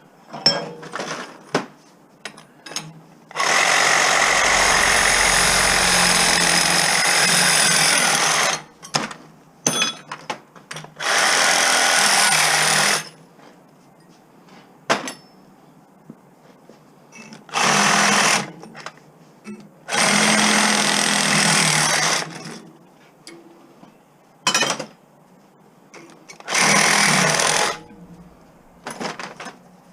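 A power tool run in five bursts of one to five seconds each, the first and longest about three seconds in, with clicks and knocks of handling between the bursts.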